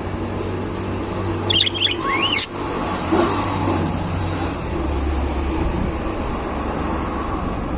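Budgerigars chirping: a short run of quick rising and falling calls about one and a half to two and a half seconds in, over a steady low rumble.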